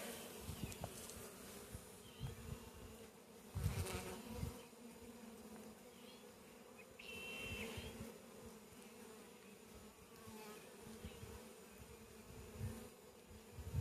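Honey bees buzzing steadily in a low hum around an open hive, with a few dull knocks about four seconds in.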